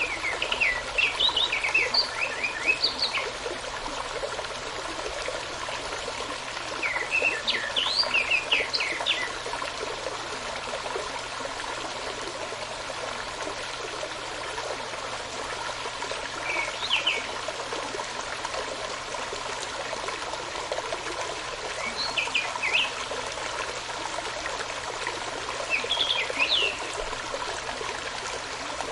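Steady running water of a stream, with a songbird singing short phrases of quick high notes, five phrases a few seconds apart.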